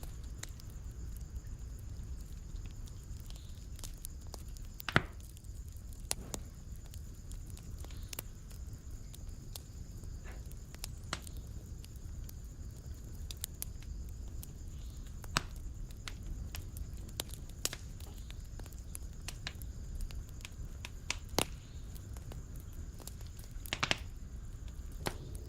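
Fire burning in a fireplace, crackling with scattered sharp pops over a steady low rumble. One loud pop comes about five seconds in, and a quick run of pops comes near the end.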